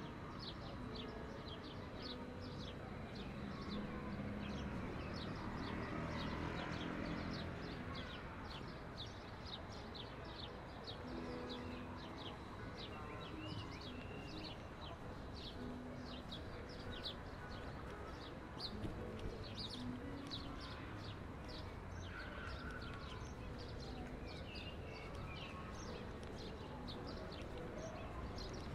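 Many small birds chirping rapidly and continuously over a steady low city rumble.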